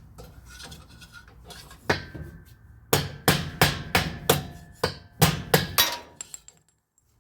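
Hammer striking the end of a long screwdriver used as a drift to knock out a Whirlpool washer's worn brass bushing, the worn part behind the machine's noise and failure to spin out. Metal-on-metal blows ring: one strike about two seconds in, then a quick run of about eight strikes, roughly three a second, stopping shortly before the end.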